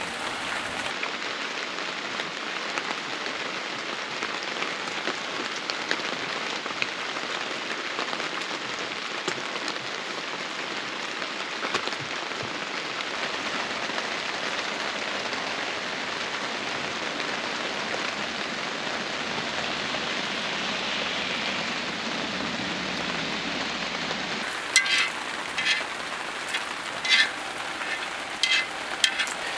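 Steady rain falling in an even hiss. Near the end, a handful of sharp taps stand out loudly over it.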